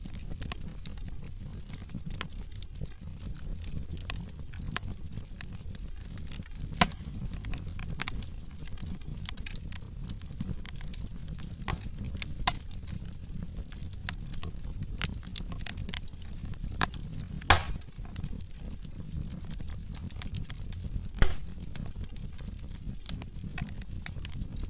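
Wood logs burning in a fireplace: a steady low rumble of flames with frequent small crackles, and three louder sharp pops standing out.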